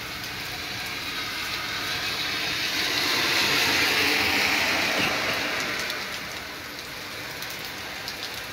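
Heavy rain falling, with a car driving past on the wet road about halfway through, its tyre hiss swelling and then fading.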